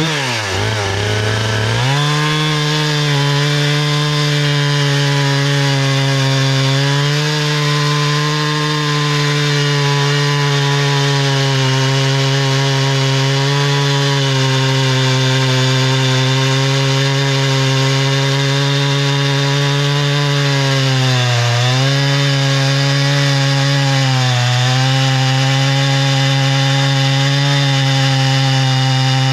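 Husqvarna 460 Rancher two-stroke chainsaw at full throttle cutting through a large poplar round. Its pitch sags as the chain bites in at the start, then holds steady under load, with two brief dips about three quarters of the way through.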